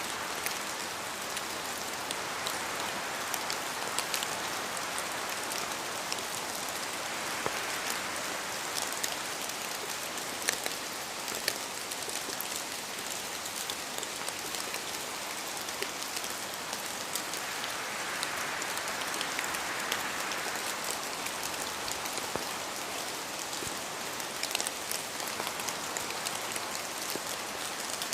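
Rain in a forest: a steady hiss with many separate drops falling from the trees and tapping close by, and wind swelling and easing a few times.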